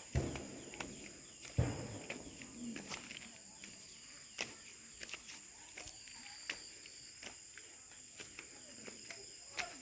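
Footsteps on a damp, rocky forest trail, with scattered scuffs and knocks, the heaviest near the start and about a second and a half in. Under them runs a steady, high-pitched drone of forest insects.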